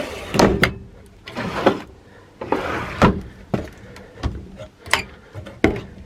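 Cabinet doors in a pop-up truck camper being opened and shut, with a string of sharp knocks and clicks, about eight, and some scraping and rattling between them.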